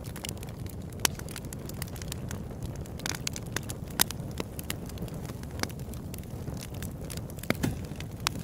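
Open-air campfire crackling, with irregular sharp pops from the burning wood, the loudest about a second in, at four seconds and near the end, over a steady low rumble.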